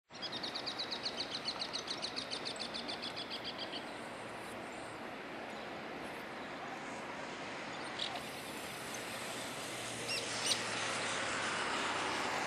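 A bird gives a fast high trill, about eight notes a second, for the first few seconds over steady outdoor background noise. Toward the end the distant sound of a steam locomotive working hard with a heavy coal train grows slowly louder as it approaches.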